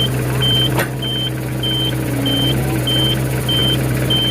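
Nissan BD30 diesel engine of a Hitachi EX60 backhoe running steadily, with an electronic warning beeper giving short high beeps a little under two times a second. A single sharp click just under a second in.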